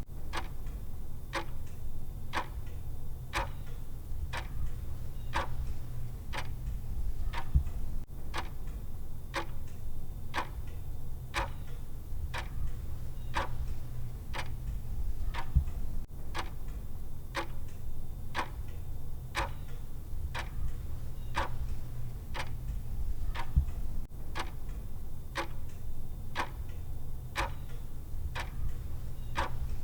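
Clock ticking with an even, alternating tick-tock, over a low steady hum.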